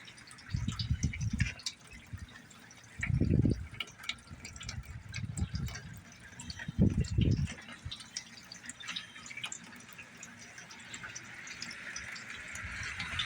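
Rain dripping, with many scattered drops ticking close by over a steady hiss. Three short, low rumbles break in, about half a second in, three seconds in and near seven seconds.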